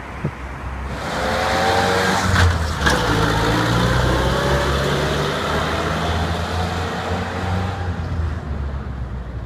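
GAZ-67's four-cylinder side-valve engine running under way, with a whine that rises steadily as the vehicle gathers speed. The sound swells about a second in, two sharp knocks come at about two and a half and three seconds, and it fades near the end.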